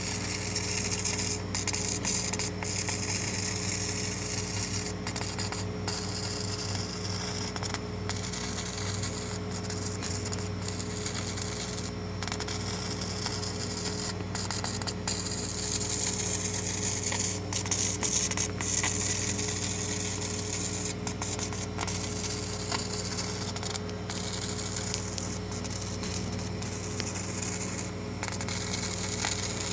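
Laser marking machine engraving a stone grave marker: a steady machine hum with several fixed low tones under a high hiss that cuts out briefly again and again as the marking runs.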